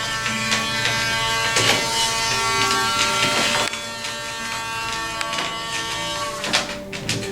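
Electric dog-grooming clippers buzzing steadily, with slight changes in pitch as they work through a Yorkshire Terrier's coat.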